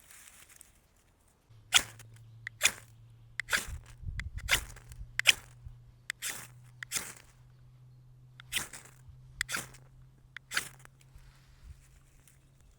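Hand tool striking wood: about ten sharp blows, roughly one a second, over a low steady hum that starts about a second and a half in.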